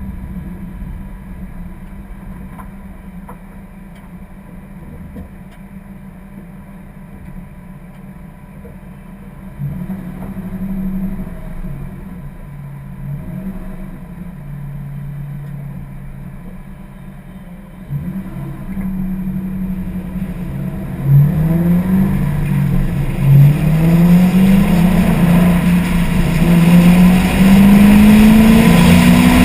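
1999 Ford Mustang SVT Cobra's 4.6-litre V8 running at moderate revs, then accelerating hard in the last third, its pitch rising in three successive sweeps through the gears. It is muffled through a sealed camera case, with heavy wind noise.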